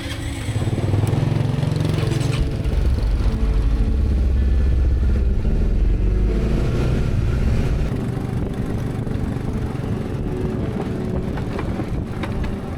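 A motor engine running steadily with a loud, deep rumble, growing louder about a second in and easing off after about eight seconds.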